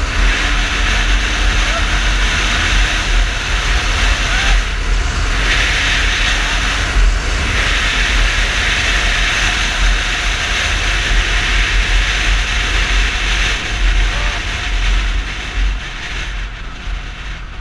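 Yamaha Fazer 250 motorcycle riding at speed, heard as loud, steady wind and road rush over the microphone with a low rumble underneath. The rush dips briefly twice and eases near the end.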